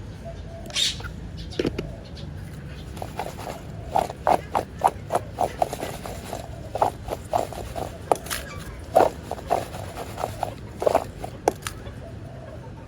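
Parrot's beak clicking and cracking food: short, sharp clicks and cracks a few times a second, irregular, over a steady low hum.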